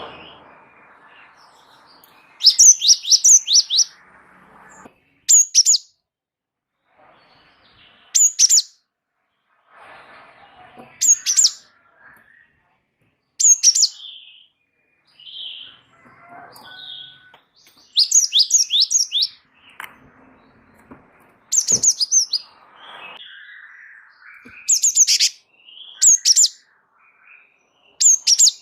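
Gelatik batu (cinereous tit) singing: short bursts of quick, high, repeated notes, three to five to a burst, coming every two to three seconds, with softer short calls between them.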